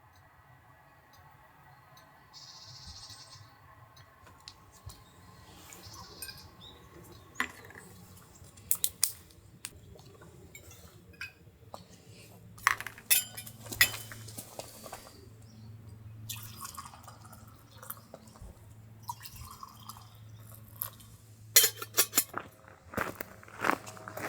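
Tableware clinking and knocking, a cluster of sharp clinks every few seconds, over a faint low steady hum.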